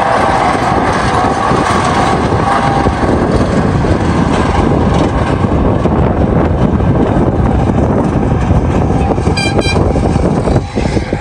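Snowdon Mountain Railway rack train's locomotive running steadily as it climbs past and draws away uphill.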